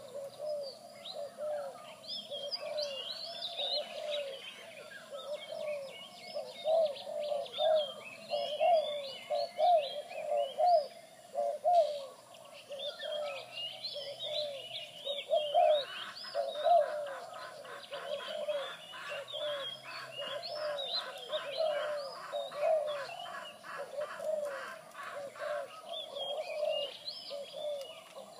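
Zebra doves cooing in runs of short, quickly repeated bubbling notes, over the high chirping of many small birds. A fast, evenly pulsed rattle joins in the middle and stops again.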